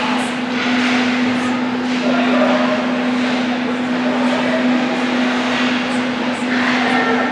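Ice hockey skates scraping and carving on the ice in repeated swells, over a steady hum in the rink.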